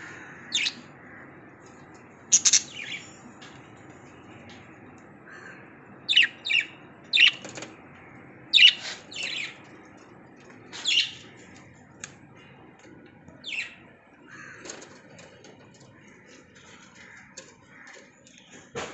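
Lovebirds giving short, high-pitched chirps and squawks at irregular intervals, several in quick succession around the middle, over a faint steady background hum.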